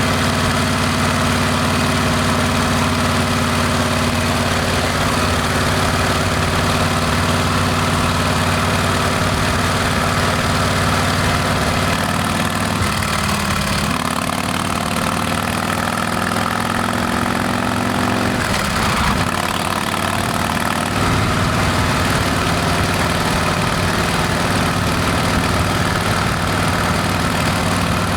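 Harley-Davidson Heritage Classic's Milwaukee-Eight V-twin running through a Rinehart exhaust: a steady, loud engine note whose pitch shifts about halfway through and again a few seconds later.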